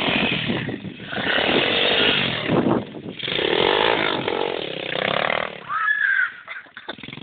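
Thumpstar 120cc pit bike's small single-cylinder engine running and revving unevenly, the revs rising and falling, then dropping away near the end.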